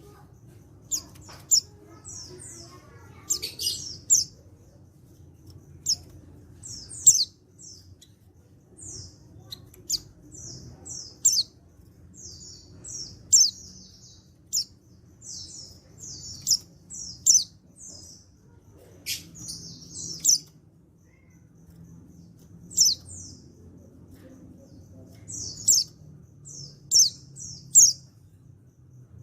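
Male white-eye (pleci) calling: short, sharp, high-pitched chirps in quick clusters of two to five, with brief pauses between clusters. It is a call meant to set other white-eyes answering.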